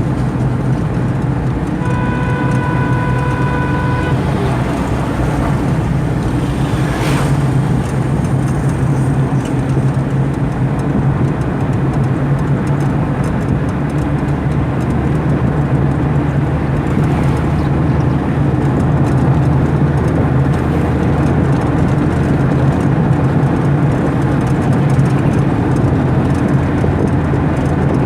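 A car driving on a highway, with steady road and engine noise throughout. A horn sounds once for about two seconds near the start.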